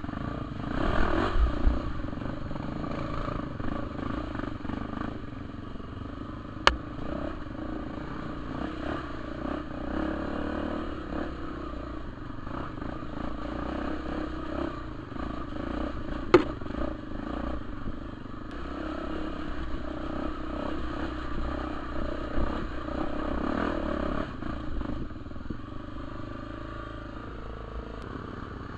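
Trail motorcycle engine running as the bike is ridden over a dirt trail, the revs rising and falling, loudest in the first couple of seconds. Two sharp knocks stand out, about 7 and 16 seconds in.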